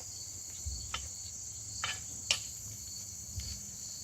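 Crickets chirping steadily in the background, with a few short metallic clinks and scrapes of a utensil stirring chicken in a cast-iron Dutch oven, the sharpest a little past the middle.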